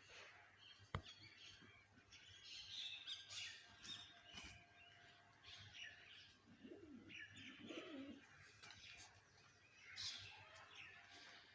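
Small birds chirping and twittering, faintly, with a lower wavering call about seven seconds in. A single sharp click sounds about a second in.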